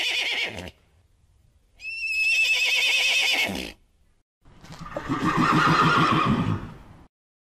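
Horse whinnying: a high, quavering call that falls in pitch and ends about half a second in, a second like it from about 2 to 3.5 seconds, then a longer, lower, rougher call from about 4.5 to 7 seconds.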